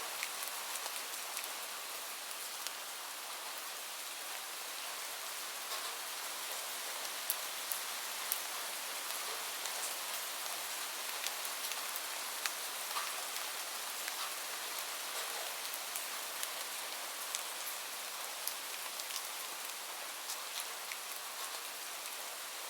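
Steady gentle rain, an even hiss, with scattered sharp pops and ticks from a crackling fireplace.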